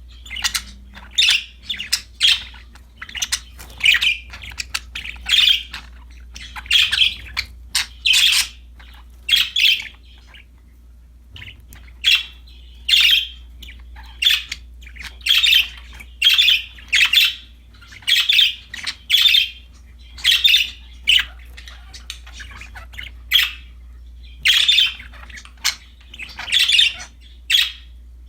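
Pet budgerigars (budgies) chirping in short, high calls that follow one another every half-second to a second, with a pause of about two seconds near ten seconds in.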